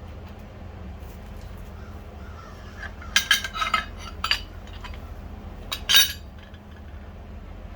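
Small metal parts and tools clinking and rattling when handled: a cluster of clinks about three seconds in and one sharp clink near six seconds, over a steady low hum.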